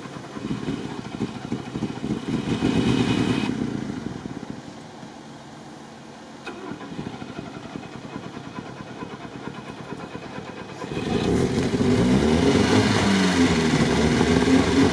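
VAZ-2101 engine cranked on the starter with the choke pulled, a fast pulsing that is loudest over the first few seconds and then weaker. From about eleven seconds in the engine runs louder, its pitch rising and falling as it is revved, while it is over-rich and flooded from the choke.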